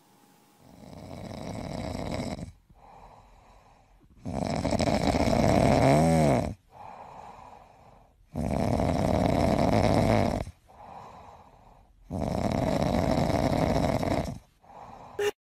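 Grey cat purring loudly and raspily while being stroked, in long rhythmic cycles: four loud phases of about two seconds each alternate with quieter phases as it breathes in and out.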